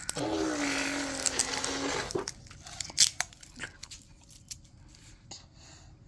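A child's long held vocal sound for about two seconds, then scattered crinkling and clicking handling noises, with one sharp click about three seconds in.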